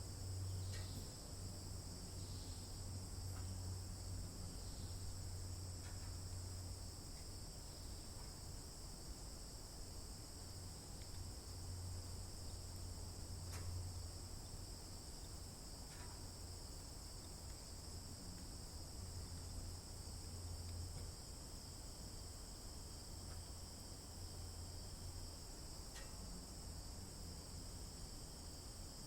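Steady chorus of insects, an unbroken high-pitched trilling, over a low steady rumble, with a few short faint chirps or ticks scattered through.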